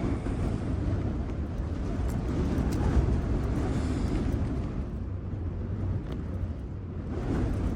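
Strong wind buffeting a Hilleberg Soulo tent, heard from inside as a low, gusting rumble of wind against the flysheet, with a few faint ticks.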